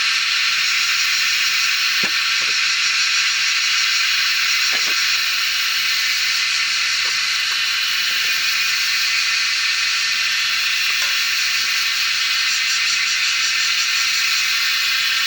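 Steady insect chorus, a dense high shrill buzz that does not let up, with a few faint ticks and snaps.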